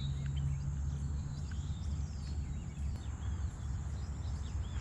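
Birds chirping in short calls over a steady high insect drone, with a low rumble underneath; a low hum within the rumble fades out about a third of the way in.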